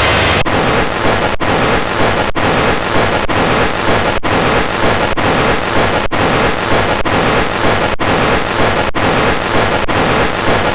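Wubbzy's cartoon scream, so heavily distorted by audio effects that it comes out as a loud, dense noisy screech with no clear pitch. The clip loops about once a second, with a brief break at each restart.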